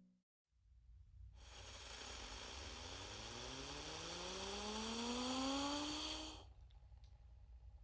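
Comedy sound effect: a hissing rush with a slowly rising tone that climbs for about five seconds, then cuts off suddenly.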